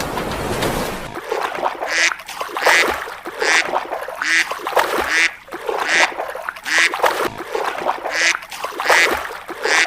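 An animal calling in a steady series of short calls, about one every three quarters of a second, after about a second of rushing noise at the start.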